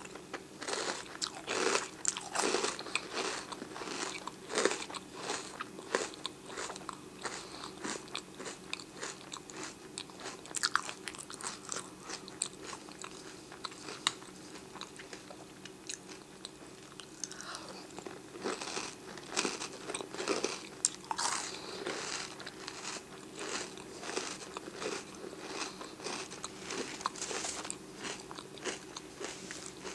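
Close-up chewing of a mouthful of oatmeal square cereal in milk: steady wet crunching, several chews a second, easing off briefly in the middle before picking up again.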